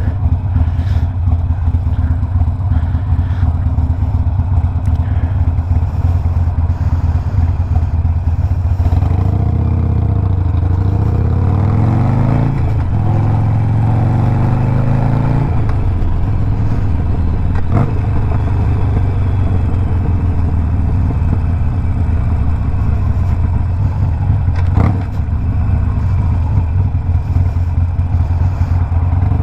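Harley-Davidson Sportster Iron 1200's 1200cc V-twin, with a Two Brothers 2-into-1 exhaust, running loud and steady under way. From about nine to sixteen seconds in it rises in pitch twice as the bike accelerates through the gears. Two brief sharp clicks come later.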